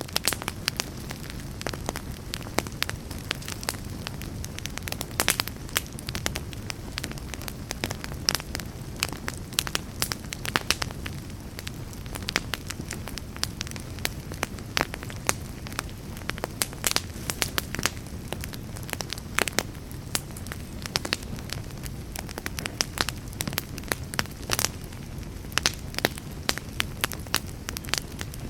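Campfire burning, with frequent sharp crackles and pops over a low steady rumble of the flames.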